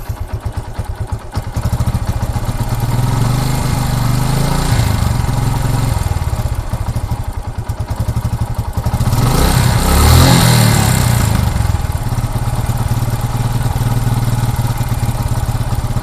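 Yamaha FZ motorcycle engine idling with the abnormal engine noise it has come in for, revved once about the middle so the pitch climbs and falls back to idle.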